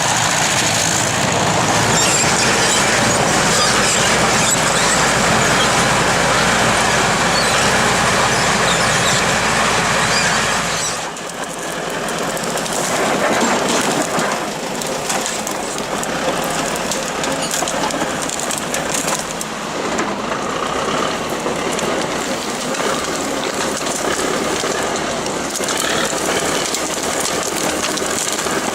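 Engine-driven machinery running continuously with a loud, noisy sound; about eleven seconds in the deep low end drops away suddenly and a lighter engine noise carries on.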